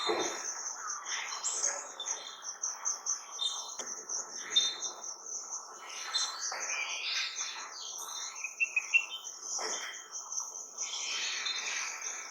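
Several wild birds chirping and singing in varied short phrases, over a steady, high-pitched pulsing insect trill.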